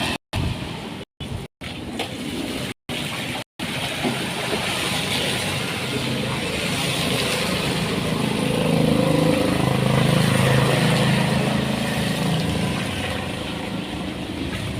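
Outdoor noise of a wet road in the rain, with a motor vehicle passing and growing louder about eight seconds in, then fading. The first few seconds are chopped by several short cuts to silence.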